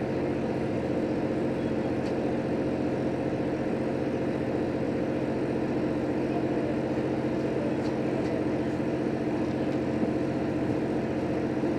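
Cabin of a JR Hokkaido H100 diesel-electric railcar under way: steady diesel engine hum with wheel and rail noise, and one faint click about ten seconds in.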